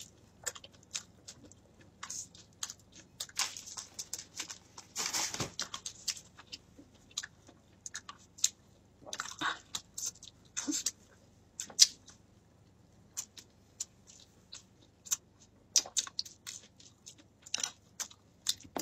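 A person chewing food close to the microphone: irregular short mouth clicks and smacks.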